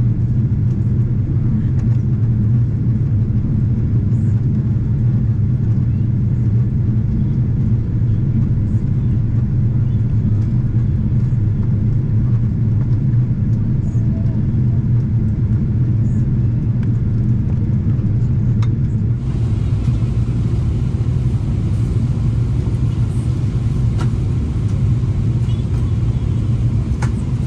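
Steady low rumble of cabin noise from inside a moving vehicle.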